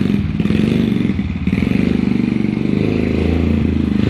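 A vehicle engine running at a steady speed, with a fast even pulse.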